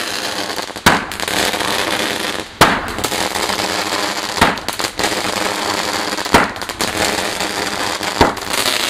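A lit garden firework burning with a continuous hissing, crackling spray, broken by a sharp bang every second or two.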